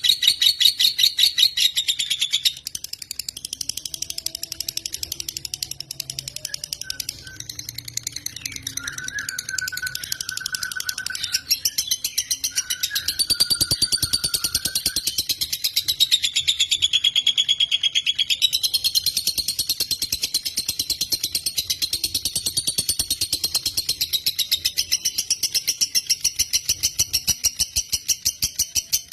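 Lovebird singing in one long, unbroken chatter of rapid, evenly spaced high chirps. A fainter, lower held note runs underneath for a few seconds in the middle.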